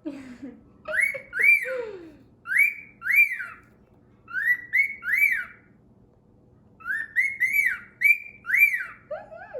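Male grey cockatiel whistling a repeated tune. The tune comes in short phrases of quick rising-and-falling notes, with pauses between the phrases and a longer pause about midway.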